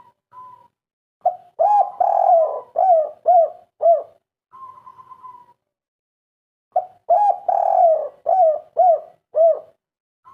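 Spotted dove (derkuku, 'kuk 3' type) cooing: two phrases, each a soft opening note and a longer rolling coo followed by three short arched coos. A fainter, higher steady note sounds between the phrases.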